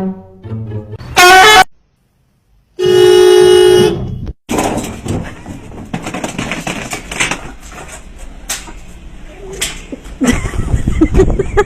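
Two loud horn-like honks: a short one that bends upward about a second in, then after a brief gap a steady held honk lasting about a second. A noisy stretch with scattered knocks and clatter follows.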